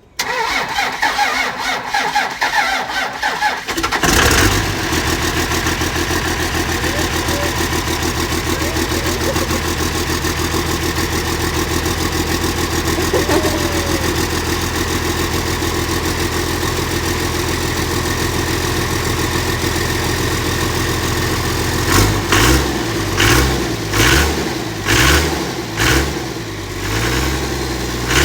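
Second-generation truck's 24-valve Cummins diesel cranking on the starter for about four seconds, then catching and idling steadily on a cold start after sitting unused. Near the end it is revved in several quick blips.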